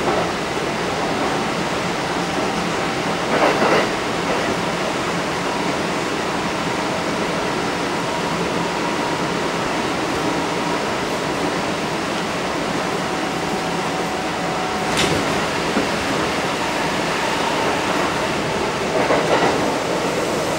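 Interior running noise of a Kintetsu 1230 series electric train, a Hitachi GTO-VVVF unit: a steady rumble of wheels on rail with faint steady tones. It is broken by a brief louder burst about three seconds in, a sharp click around fifteen seconds, and another burst near the end.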